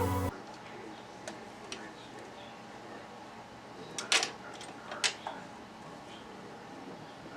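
Electronic music that cuts off suddenly just after the start, then quiet room tone broken by a few light clicks and knocks, the loudest a pair about four seconds in and another about five seconds in.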